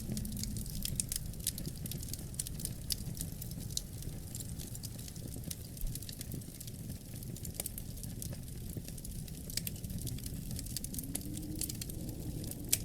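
Wood fire crackling in a fireplace: frequent, irregular sharp pops and snaps over a steady low rumble of burning logs.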